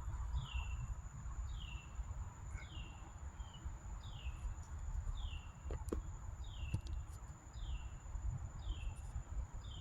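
A bird calling over and over: a short falling note repeated about once a second, over a low outdoor rumble.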